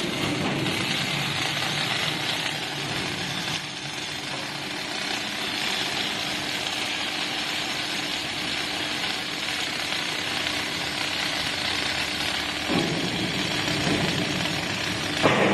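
Factory machinery running steadily: a continuous hiss over a constant low hum, with a brief louder surge near the end.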